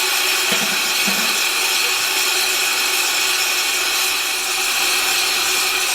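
Steady loud hiss of steam escaping from a steam locomotive standing ready to leave.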